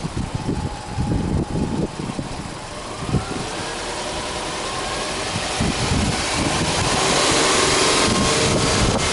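Subaru Forester 2.0XS's flat-four boxer engine running with the hood open, with wind buffeting the microphone at first. From about three seconds in a gently rising whine sets in, and the engine noise builds into a louder, steady hiss that holds.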